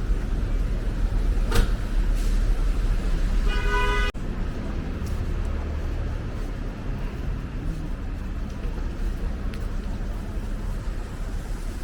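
City street traffic noise with a steady low rumble, and a short car horn toot about three and a half seconds in.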